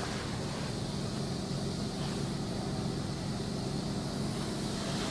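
Automatic car wash working over the car in its foam stage, heard from inside the closed cabin. It makes a steady rushing noise with a low, even hum underneath.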